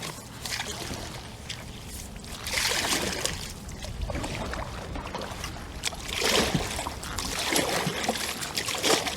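Kayak paddle strokes splashing in the water, about four of them in the later part, over a low rumble of wind.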